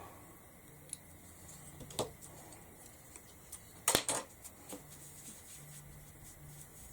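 Faint, scattered taps and clicks of craft supplies being handled on a table while more ink is picked up for stencilling with a foam pad. The loudest is a sharp double knock about four seconds in.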